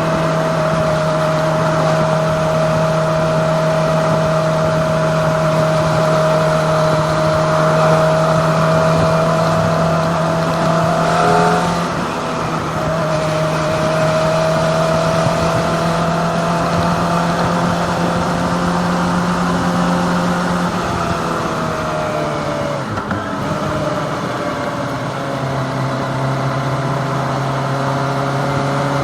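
Kawasaki ZX-25R's 250 cc inline-four engine running at a steady cruise under a constant rush of riding wind. Its note drifts slowly up, drops about twelve seconds in and climbs again, then falls to a lower steady pitch in the last few seconds.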